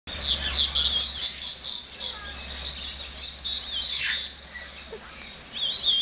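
Birds chirping, several high voices overlapping, with quick runs of repeated notes and short sliding calls.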